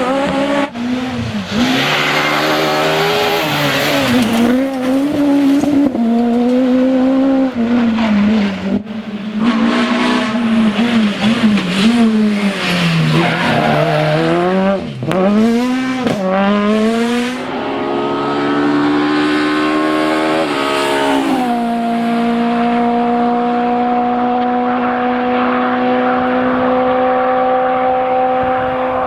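Peugeot 206 Maxi S1600 rally car's naturally aspirated 1.6-litre four-cylinder racing flat out, the engine note climbing through the revs and dropping at each gear change and lift, with abrupt cuts between passes. For the last third the engine note holds steady at one pitch.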